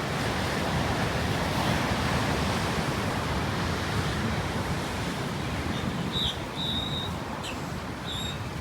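Ocean surf washing steadily onto the beach, with cold wind rumbling on the microphone. A few short high chirps come near the end.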